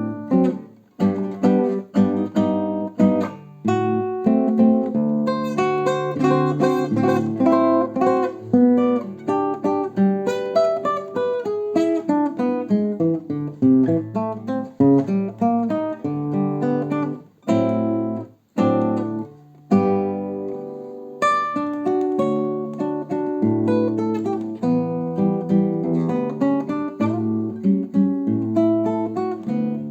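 Solo acoustic guitar playing a Brazilian choro piece: a plucked melody over a moving bass line, with a few brief breaks between phrases, mostly past the middle.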